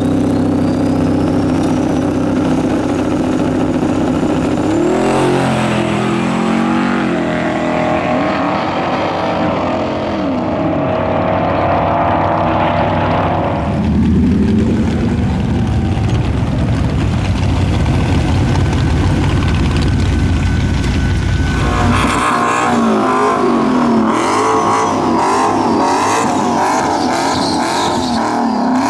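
Twin-turbo 5.3L V8 running hard, with a high whine rising over the first few seconds. The engine note changes abruptly several times, about five, fourteen and twenty-two seconds in.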